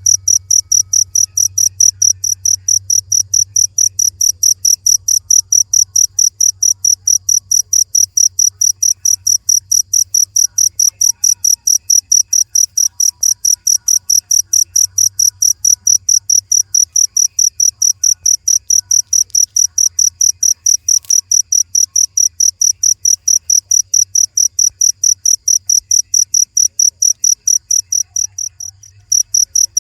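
A cricket chirping in an even, fast rhythm of high-pitched pulses, about three to four a second, breaking off for under a second near the end. A faint low hum runs underneath.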